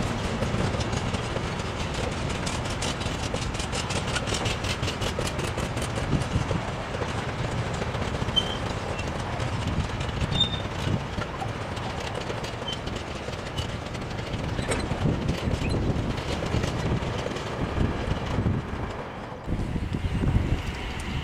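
A container freight train's wagons rolling past at speed, part of the rake running empty: a steady rumble with fast, even wheel clicks over the rail joints. Near the end the sound cuts to wind noise.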